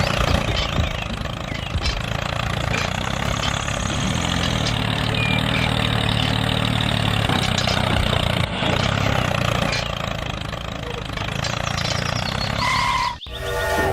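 An engine running steadily at idle, with a low even drone, cut off abruptly near the end.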